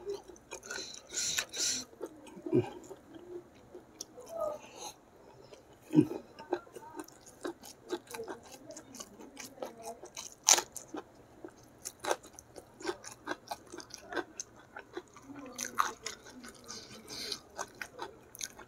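Close-miked chewing of a mouthful of rice, sambal petai and raw green chilli, with many short crunching bites. The sharpest crunches come about six and about ten and a half seconds in, the later one a bite into a raw green chilli.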